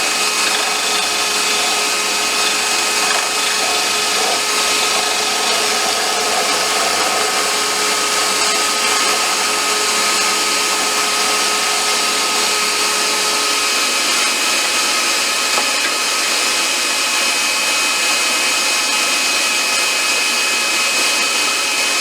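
Wood lathe running steadily while a wooden popper lure blank is being turned: a continuous motor whir and hiss with a few steady tones in it.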